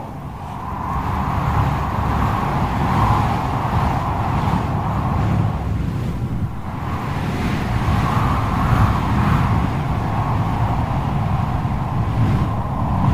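Storm wind shrieking in a whirlwind: a wavering whistle that swells and fades over heavy rumbling gusts buffeting the microphone.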